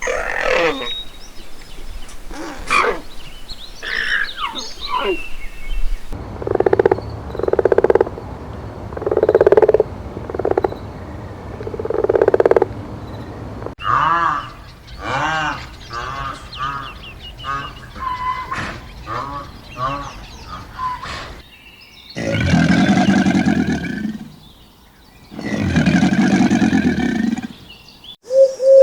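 A run of different animal calls, cut together: high chirping calls at first, then a series of short repeated calls, then two long, loud calls near the end.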